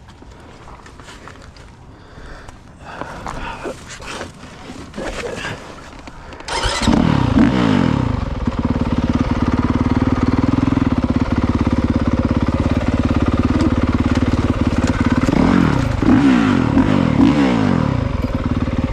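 Scattered footsteps and small knocks, then about a third of the way in the Honda CRF450R's four-stroke single-cylinder engine fires up suddenly and revs. It settles into a steady idle, and the throttle is blipped a few times near the end.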